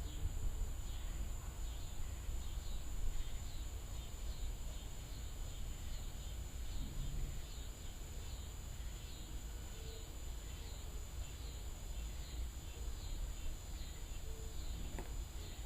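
Night insects chirping in a steady rhythm, about one and a half chirps a second, over a continuous high insect drone, with a low rumble underneath.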